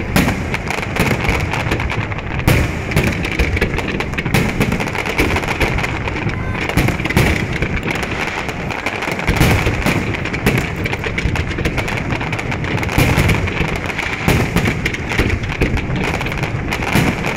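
Fireworks display: a dense, unbroken run of bangs and crackle from many shells bursting in quick succession.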